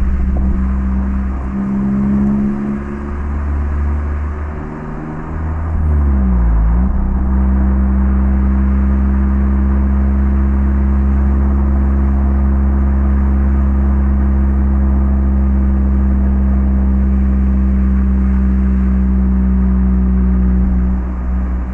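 Mazda MX-5 (ND) Roadster's 1.5-litre four-cylinder engine running through an HKS Legamax Sports exhaust while driving. Its note dips and comes back up about six seconds in, then holds steady before easing off near the end.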